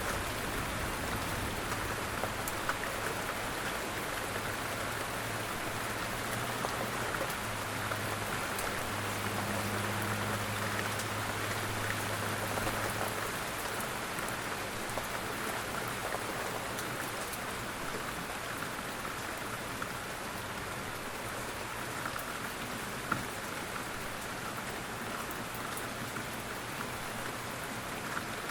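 Steady, gentle rain falling, with drops pattering on a surface. A faint low rumble sits under it for about the first half.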